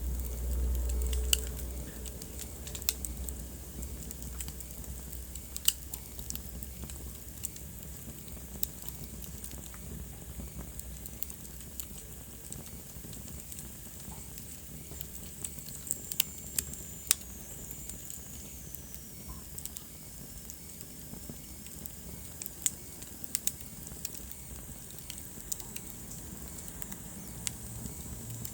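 Wood fire burning in a fireplace, crackling with irregular sharp pops over a steady low rumble of the flames. A faint high whistle slides down in pitch about two-thirds of the way through.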